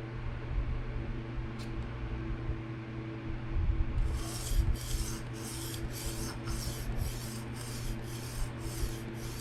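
PM60 steel knife blade drawn across a 600-grit Atoma diamond plate in light freehand sharpening strokes: a rhythmic scraping hiss, about two strokes a second, starting about four seconds in. A steady low hum runs underneath.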